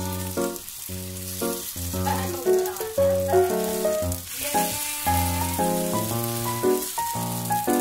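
Dumpling-wrapper churros frying in shallow oil in a pan, a steady sizzle, under background music with a melody of short, changing notes.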